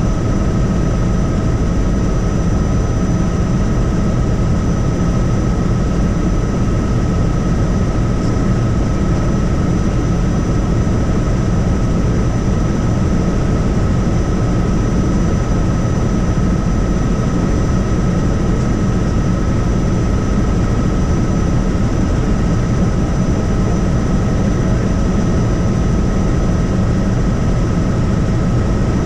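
Helicopter in flight: a loud, steady drone of rotor and engine, with a constant high-pitched whine over it.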